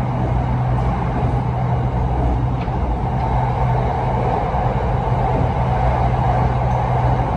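Cabin noise of an electric commuter train running along the line: a steady low hum under a continuous rumble of wheels and running gear, unchanging in level.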